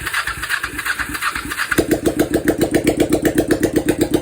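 Motorcycle engine turning over on the electric starter, then catching about two seconds in and running with an even, rapid beat: the engine firing up on its first start attempt.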